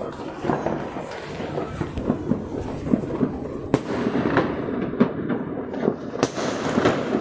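Fireworks and firecrackers going off, a steady run of sharp bangs and pops, several a second, over continuous crackling.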